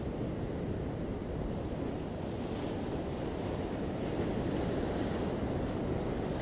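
Ocean waves washing onto a beach: a steady low rushing of surf, with one wave swelling into a brighter hiss around the middle to later part.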